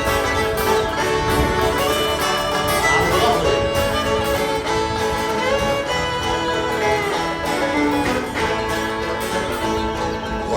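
Live folk band playing an instrumental break between verses of a ballad, a lead melody carried over a steady accompaniment.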